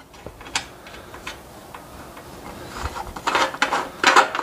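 A few light, sharp clicks and taps from hand work on the snowblower's fuel system, then louder scraping and handling noises from about three seconds in.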